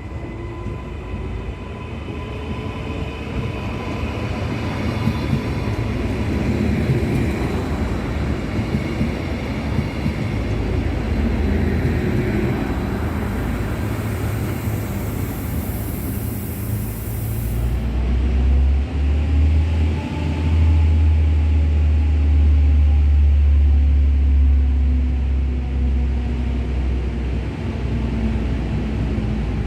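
Two coupled diesel multiple units, ATR 125 and ATR 115, running through the station with a steady rumble and gliding engine and transmission tones. A strong low engine drone builds about two-thirds of the way through and holds for several seconds.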